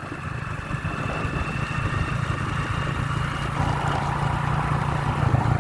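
Motorbike engine running steadily as the bike is ridden along a road, growing slightly louder toward the end.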